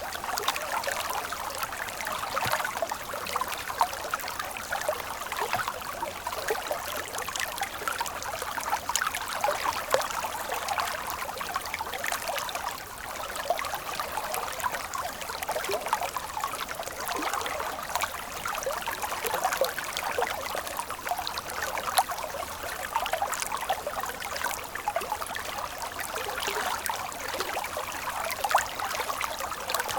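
Stream water flowing and trickling steadily, with many small splashes and droplets throughout and no deep rumble.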